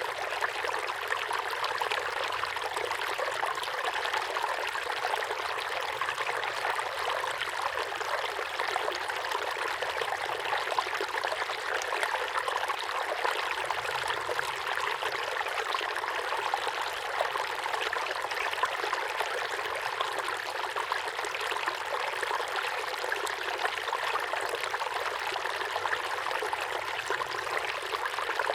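Small waterfall pouring steadily into a pond, a continuous splashing rush of water with fine trickling detail.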